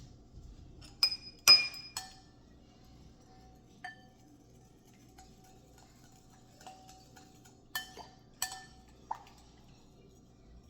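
Dishes and utensils clinking in a kitchen: several sharp, ringing clinks, two close together about a second in, a lighter one near four seconds, and three more near the end.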